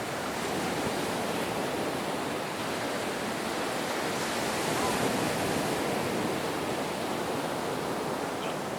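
Ocean surf: a steady rush of waves washing in, swelling slightly around the middle.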